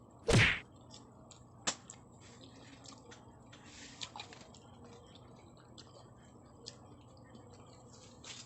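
Eating sounds close to the microphone: scattered small clicks and smacks of chewing, after one loud knock about a third of a second in.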